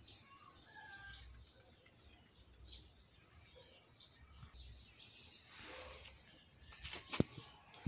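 Faint birds chirping in the background, short scattered calls throughout. About seven seconds in, two sharp clicks are the loudest sounds.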